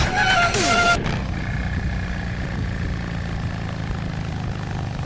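Dance music stops abruptly about a second in. It leaves a motorcycle engine running steadily under way, with the rush of air from riding over it.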